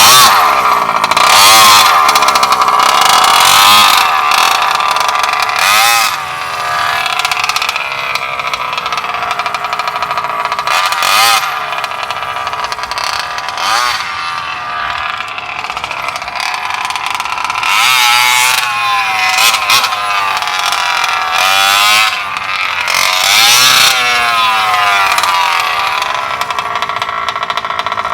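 Bartolone Racing BR40 big-bore two-stroke engine in a Losi 5ive-T 2.0 RC truck, revving up and down as the truck is driven hard. The pitch rises and falls again and again, with louder swells every few seconds.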